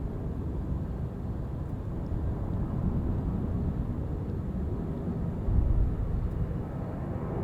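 Distant jet airliner on its takeoff run, a low engine rumble mixed with wind buffeting the microphone, with a stronger gust about five and a half seconds in.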